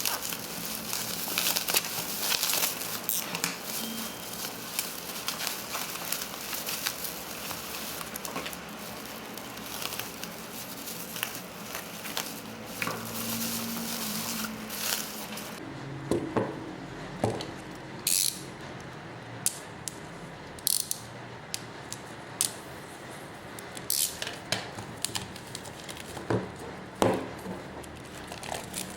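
Hands packing parcels: plastic and paper crinkling, with scattered clicks and taps. A steady hiss sits under the first half and cuts off suddenly about halfway, after which the handling sounds stand out as separate sharp clicks.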